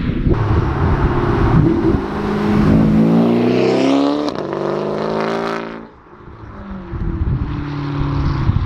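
Porsche Panamera Turbo's twin-turbo V8 through a custom stainless GT3-style exhaust, accelerating hard with its pitch climbing over a couple of seconds. The sound drops off suddenly about six seconds in as the throttle is lifted, then the engine pulls again.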